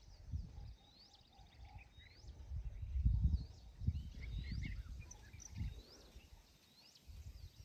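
A bird repeats a short high chirp every second or so, with other faint bird chirps, over irregular low rumbling bumps from the outdoor microphone.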